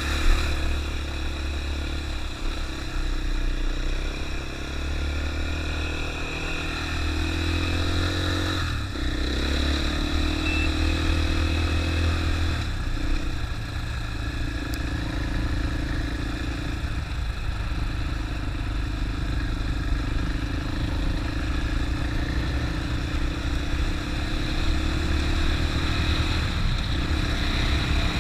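450 cc single-cylinder dual-sport dirt bike engine running under way at cruising speed, its pitch dropping and picking back up about nine seconds in and again near thirteen seconds as the rider eases off and gets back on the throttle.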